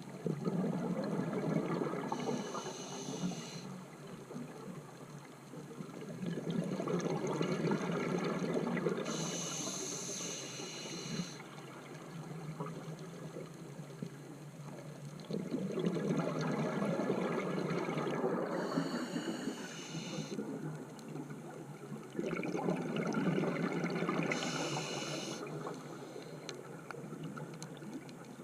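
Scuba diver breathing through a regulator underwater: about four breath cycles, each a long bubbly rush of exhaled air with a short high hiss from the regulator.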